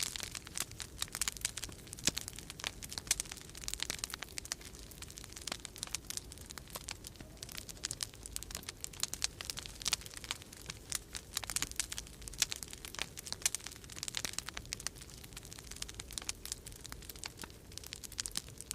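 Wood fire crackling in a fireplace: dense, irregular pops and snaps, over a low steady rumble of storm wind.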